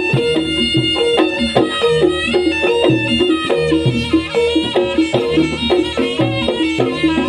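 Live traditional Javanese dance-troupe music: a stepping melodic line over repeated bass notes and drum beats, playing steadily.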